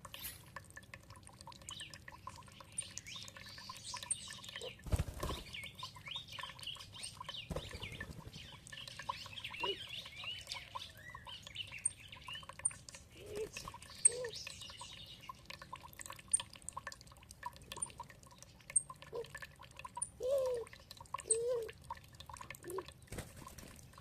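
Songbirds chirping and warbling over dripping and trickling water, with many small clicks of falling drops. A couple of duller low knocks come early on, and a few short low notes sound near the end.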